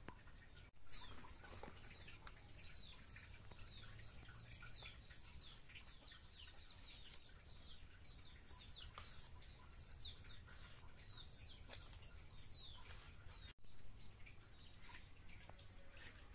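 Small birds chirping, about two quick falling chirps a second, over a faint background with a few soft clicks.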